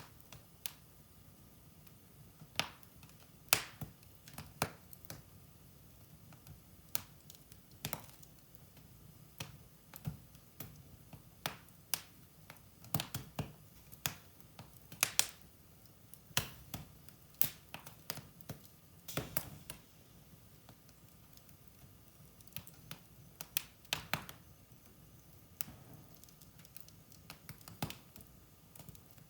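Wood fire in a fireplace crackling: irregular sharp pops and snaps, sometimes several in quick succession, over a faint low rumble.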